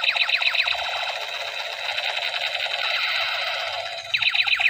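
A battery-powered toy sniper rifle's electronic firing sound effect: rapid falling laser-like zaps, about ten a second, near the start and again about four seconds in, with a steady electronic buzzing in between.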